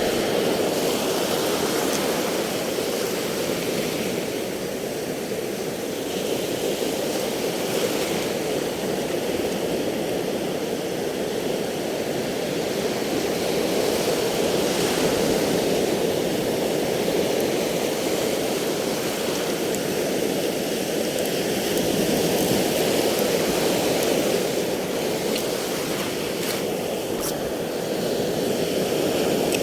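Sea waves washing in a steady rushing noise that slowly swells and eases every several seconds.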